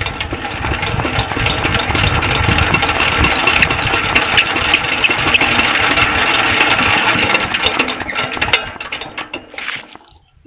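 Old 16 HP Petter diesel engine being turned over, a dense mechanical clatter that fades as it slows to a stop near the end. The engine has not fired, because its fuel is not yet reaching the injector through a dirt-clogged delivery valve.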